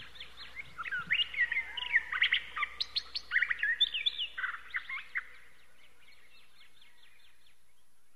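Small birds chirping: many quick, overlapping chirps, busiest in the first few seconds, thinning out and dying away after about five seconds.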